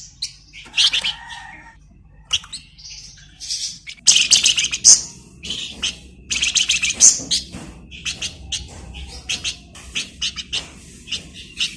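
A flamboyan songbird singing in rapid bursts of sharp, high chirps and fast rattling trills, the kind of full, busy song that keepers use as a tutor recording for magpie-robins.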